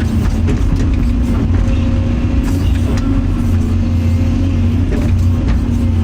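Excavator diesel engine running steadily, with a few light knocks over the drone.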